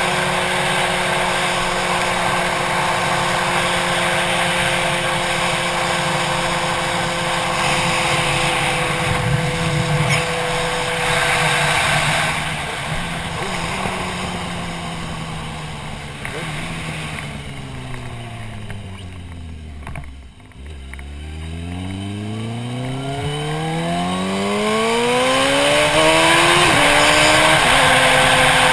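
Motorcycle engine heard from the rider's helmet with wind rush. It runs at a steady cruise, then slows as the revs fall smoothly to near idle. It then accelerates hard with rising revs and shifts up a gear near the end.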